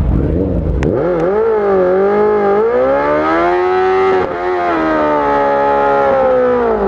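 A vehicle engine revved hard and held at high revs, its pitch wavering up and down, then falling away as the throttle is released near the end.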